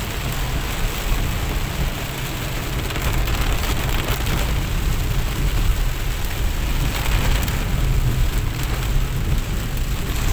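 Heavy rain falling hard on a car's roof and windshield, heard from inside the moving car as a steady, dense hiss over a low rumble.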